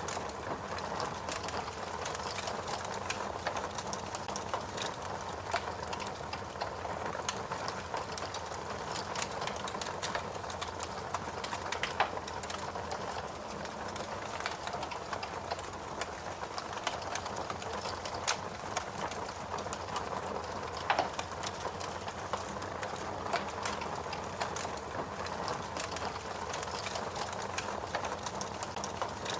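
Fire crackling steadily, a dense run of small snaps and clicks over a soft hiss, with a louder pop about twelve seconds in and another about twenty-one seconds in.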